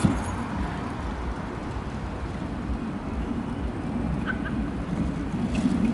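Skateboard wheels rolling on asphalt under a refrigerator, a steady low rumble with a short knock at the start.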